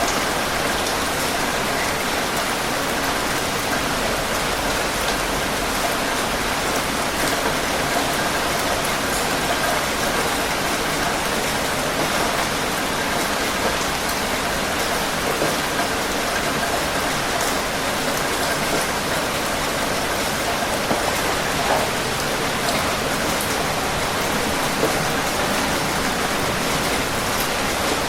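Steady rain falling on a surface, an even wash of noise with scattered individual drops.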